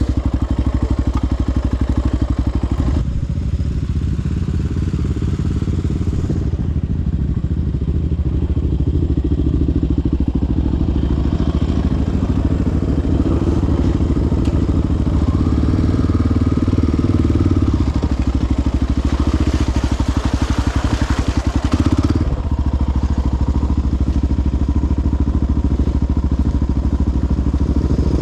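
Single-cylinder four-stroke engine of a sport quad (ATV) running steadily while riding a trail, heard close to the machine. There is a stretch of louder rushing hiss about two-thirds of the way through.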